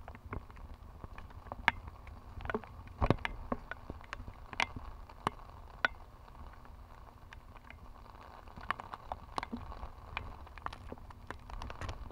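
Raindrops striking the camera body, irregular sharp taps a few a second, over a low rumble of wind on the microphone.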